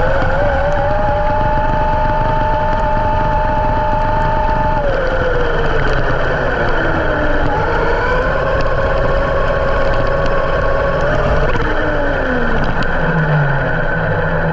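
Brushless electric motor whine of a Traxxas X-Maxx 1/6-scale RC monster truck driving: the whine rises and holds through two runs, each falling away as it slows, over a steady rushing noise. A low steady hum comes in near the end.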